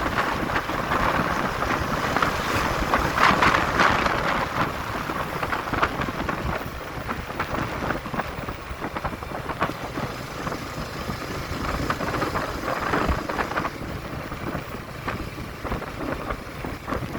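Riding motorcycle, with wind buffeting the microphone over the hum of the engine and road noise.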